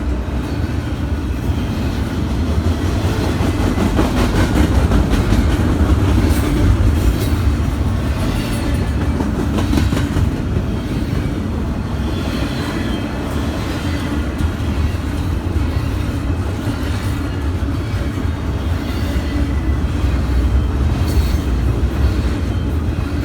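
Train rolling past at close range: a steady, loud rumble of steel wheels on rail, with repeated clicking and clacking of the wheels.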